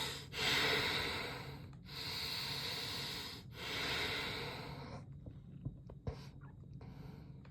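A man breathing hard through his nose: four long, noisy breaths in the first five seconds, then quieter breathing with a few faint clicks.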